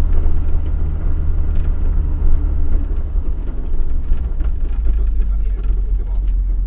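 Volvo 244 rally car's engine heard from inside the cabin, running low as the car slows. Its note drops lower about halfway through as the car rolls up to a stop.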